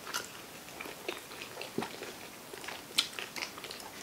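Quiet chewing and mouth sounds of people eating sushi, with scattered small clicks, the sharpest about three seconds in.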